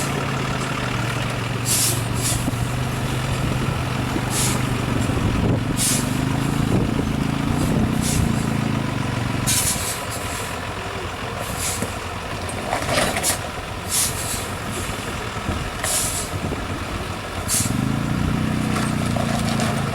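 Heavy off-road trial truck's diesel engine running and revving, with many short hisses of air brakes being released. The engine drops away about halfway through and comes back near the end.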